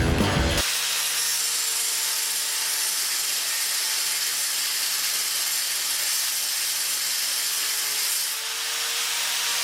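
Angle grinder grinding back the longer chromed arm of a motorcycle footpeg clevis: a steady grinding hiss over a faint motor hum, easing briefly about eight seconds in. Rock music plays for a moment at the very start before cutting off.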